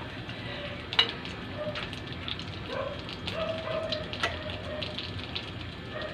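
Breaded chicken breast pieces sizzling in shallow oil in a nonstick frying pan over low heat, a steady gentle hiss. A couple of sharp clicks, about a second in and again about four seconds in, as metal tongs knock the pan while turning the pieces.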